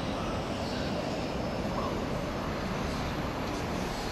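Steady rumbling drone of an approaching Class 158 diesel multiple unit.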